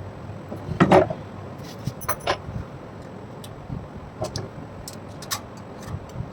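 Irregular clinks and knocks of metal fan parts and hand tools being handled during restoration work, the loudest about a second in.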